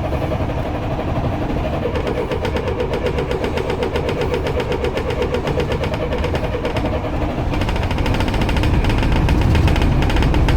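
Starter motor cranking a 1993 Mercedes 609D's diesel engine in a cold start without glow plugs. It turns over in a fast, even rhythm with a starter whine and grows louder in the last few seconds, but has not yet caught.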